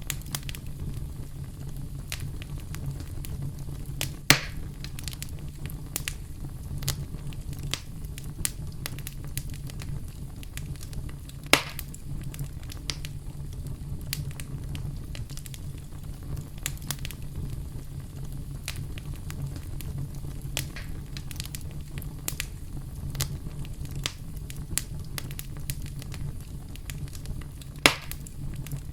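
Campfire burning: a steady low rumble of flames with constant small crackles, and three louder pops, about four seconds in, near the middle and near the end.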